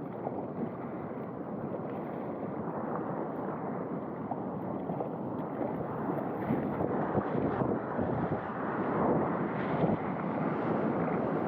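Sea water rushing and splashing around a waveski, with wind buffeting the microphone; it grows a little louder towards the end.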